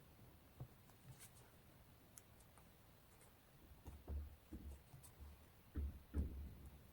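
Faint handling of paper and stationery on a desk while working on a journal collage page: a few light ticks and scratches, then several soft knocks from about four seconds in.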